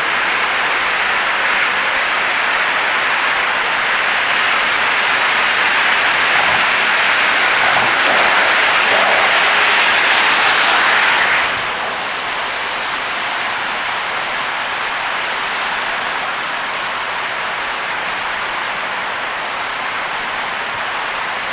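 Heavy rain and wet-road tyre noise from a car driving through a downpour: a steady, loud hiss that drops suddenly about halfway through.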